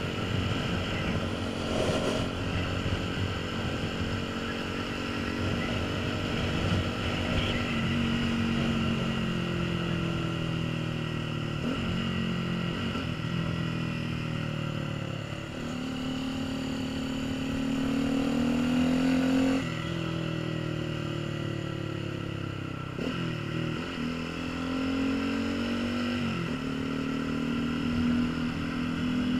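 Honda CBF125's single-cylinder four-stroke engine pulling on the move, its pitch climbing through each gear and dropping sharply at several gear changes, with wind noise on the microphone.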